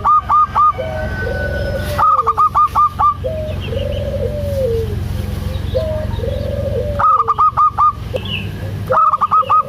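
Zebra dove (perkutut) cooing: bursts of quick, clipped higher notes alternating with lower, drawn-out arching coos, repeated several times, over a steady low hum.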